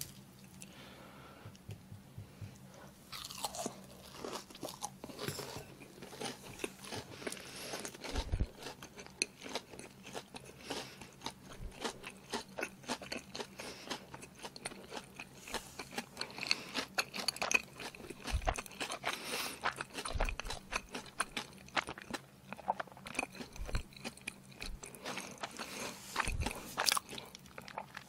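A person chewing a crispy pan-fried sea-worm pancake (jeon), close-miked: many short crunches and mouth clicks, with a few soft low thumps.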